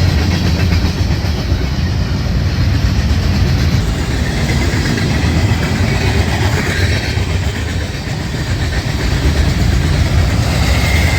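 Freight train rolling past at speed: a steady rumble of locomotive and wheels on rail, with some clickety-clack of the cars.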